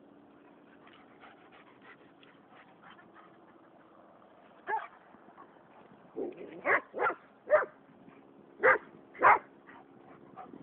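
A dog barking, about seven short barks in the second half, over a faint steady background.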